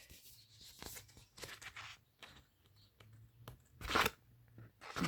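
Pages of a picture book being handled and turned: faint paper rustling, with one louder, brief papery swish about four seconds in.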